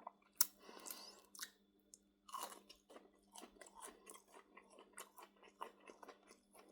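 A person biting into and chewing a breaded chicken nugget close to the microphone, with a few crisp crunches early on and then soft, irregular chewing a few times a second. The nuggets are dry.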